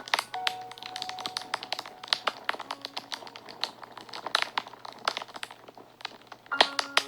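Wood fire crackling and popping with irregular sharp snaps, under soft background music that holds a few sustained notes.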